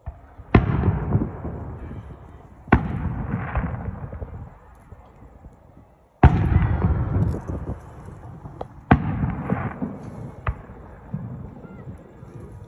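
Aerial firework shells bursting: four loud booms spaced a few seconds apart, each followed by a trailing rumble that dies away over a second or two, with a couple of smaller, sharper cracks between the later ones.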